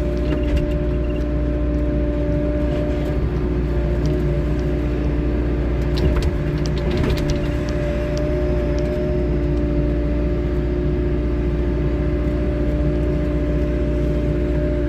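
Wheeled excavator's diesel engine running steadily with a held whine over its rumble, and a few sharp knocks about halfway through.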